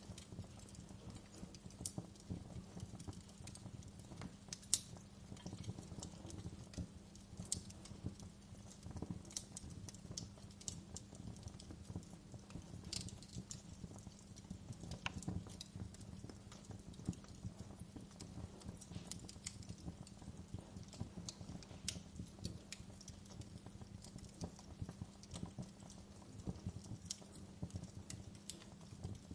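Wood fire burning in a fireplace, crackling with irregular sharp snaps and pops, several a second, over a steady low rumble.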